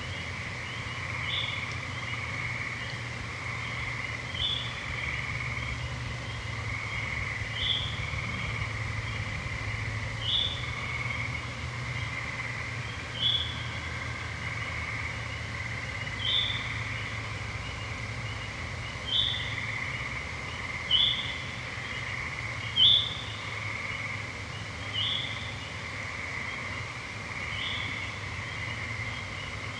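Chorus of gray treefrogs trilling steadily, with a bird repeating a short high call about every three seconds.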